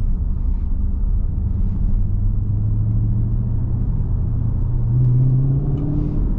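Dodge Scat Pack Widebody's 6.4-litre HEMI V8 with its mid mufflers deleted, rumbling at low revs as the car is driven; the engine note rises a little through the middle and steps up about five seconds in.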